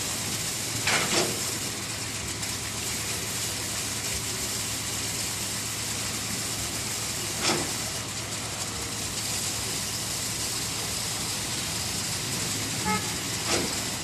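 Steady hiss of background noise with a few short, sharp knocks: two about a second in, one near the middle, and two near the end.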